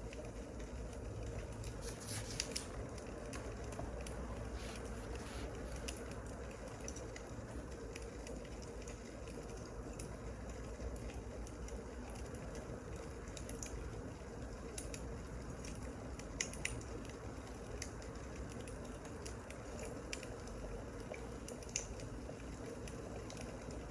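Wood fire crackling, with scattered sharp pops over a steady low hiss; the loudest pops come a couple of seconds in and again past the middle.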